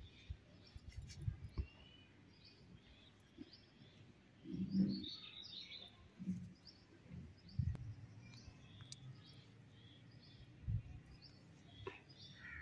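Faint background birds chirping, in short scattered high chirps, with a few soft low knocks and bumps of handling; the loudest bump comes about five seconds in.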